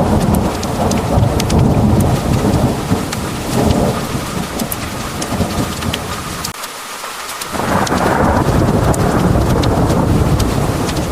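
Heavy rain pouring, with sharp drops ticking on hard surfaces and thunder rumbling low underneath. The rumble cuts out briefly a little past halfway, then swells back up.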